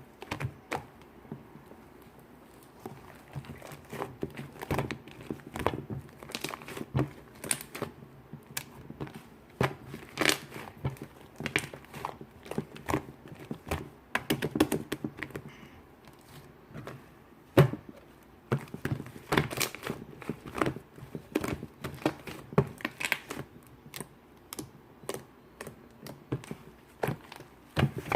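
Shaving foam being stirred and mixed, giving irregular crackling, squishing clicks, some louder than others, with no steady rhythm.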